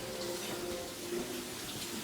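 Faint running water, as from a tap while hands are washed.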